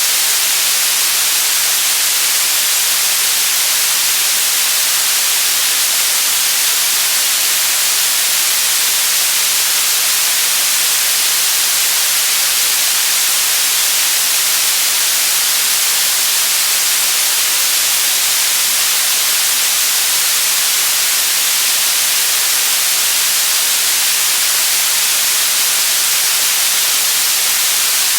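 Continuous white noise: a steady, loud, even hiss that never changes, strongest in the high end.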